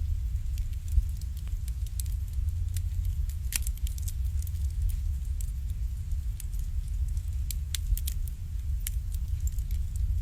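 Wood fire burning in an irori hearth, crackling with irregular sharp pops over a steady low rumble.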